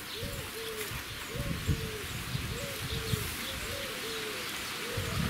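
Birds calling: short low calls, each rising and falling, repeated over and over, several overlapping.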